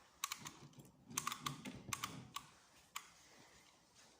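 A run of light, sharp clicks and taps, irregularly spaced, over a quiet background.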